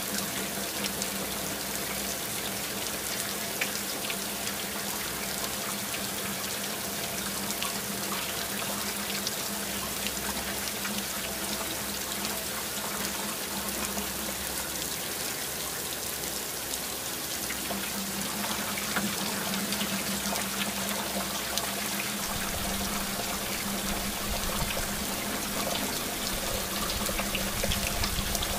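Steady rain, an even hiss dotted with fine drop ticks, over a low steady hum; a low rumble joins about three quarters of the way through.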